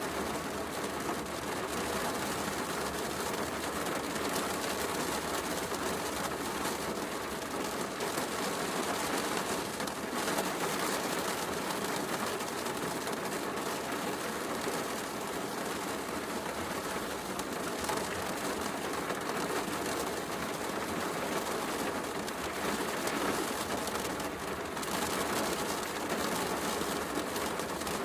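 Heavy rain falling steadily, mixed with a wood fire crackling in a fireplace.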